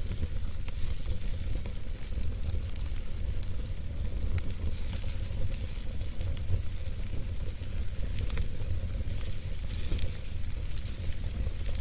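Wood fire burning in a fireplace: a steady low rumble of flames with a hiss and scattered sharp crackles and pops.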